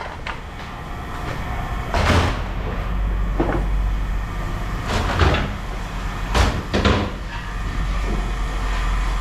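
Scrap metal being handled: about five separate clanks and bangs as pieces are dropped or tossed, over a steady low hum.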